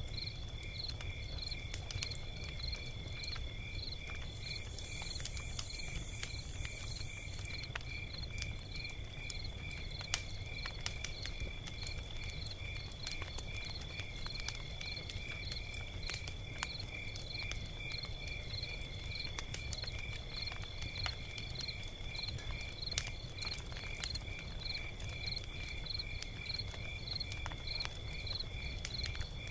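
Log fire crackling, with scattered sharp pops over a low rumble, while crickets chirp steadily in a fast, even rhythm. A brief high-pitched buzz joins in from about four to seven seconds in.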